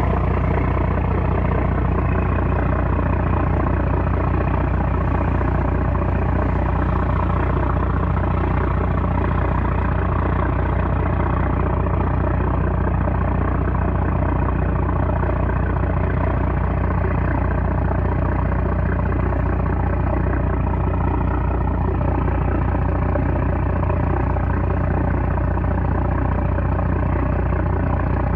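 A 330-horsepower small trawler's diesel engine running steadily, a loud, even drone with no change in speed.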